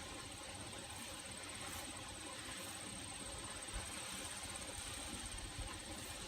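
An insect trills steadily at a high pitch over faint outdoor background noise and low rumble.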